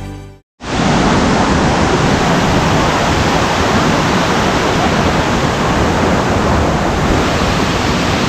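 Waterfall rushing: a loud, steady wash of water noise that starts suddenly about half a second in, after background music cuts off.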